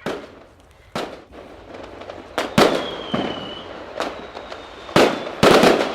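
Fireworks going off: a series of sharp bangs, several in quick succession near the end, with a thin whistle that falls slightly in pitch around the middle.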